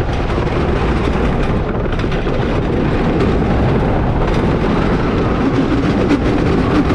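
Wooden roller coaster train running at speed on its wooden track, heard from onboard: a loud, steady rattling clatter of wheels on the track, with wind rushing over the microphone.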